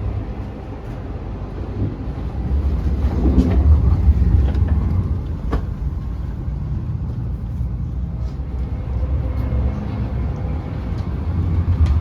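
Eurostar high-speed train running, heard from inside the carriage as a steady low rumble that swells for a couple of seconds about three seconds in, with a few faint clicks and knocks.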